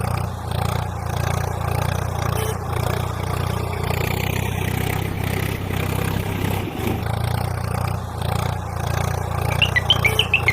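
A motor running steadily with a low hum that dips briefly about two-thirds of the way through. Rapid high chirps begin near the end.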